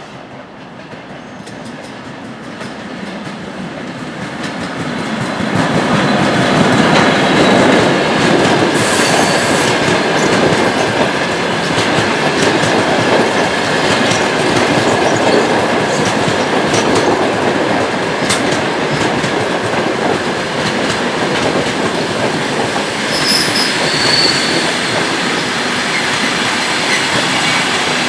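Passenger train behind a ChS4 electric locomotive rolling in past the trackside, growing louder over about the first six seconds, then a steady rumble and clatter of carriages on the rails with a high wheel squeal.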